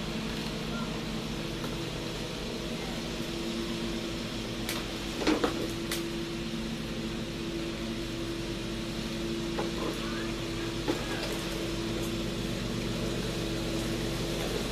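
A steady machine hum at one unchanging pitch, with a few light clicks and knocks about five to six seconds in and again near eleven seconds.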